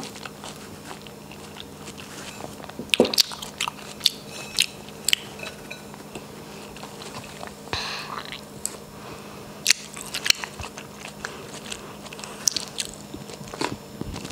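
Close-miked chewing of a piece of cantaloupe: scattered wet mouth clicks and smacks, a few of them sharp, with short pauses between.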